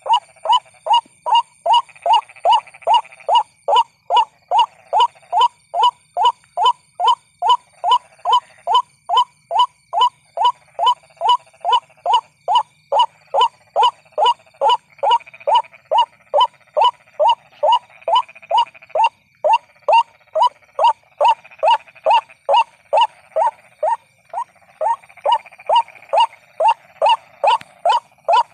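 White-breasted waterhen calling, a monotonous run of short, loud, downward-sliding notes repeated about twice a second without a break.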